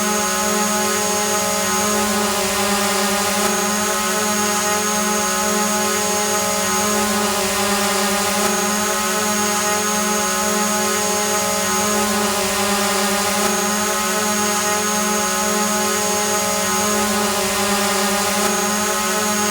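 Multirotor drone hovering: its motors and propellers give a steady, even buzzing whine over a hiss, with a thin high tone that drops in and out every few seconds.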